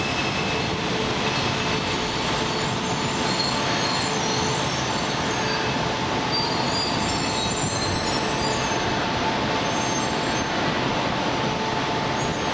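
E4 series double-decker Shinkansen (Max) pulling slowly into the platform: a steady rushing run with a faint hum, and scattered faint high squeals from the wheels and brakes.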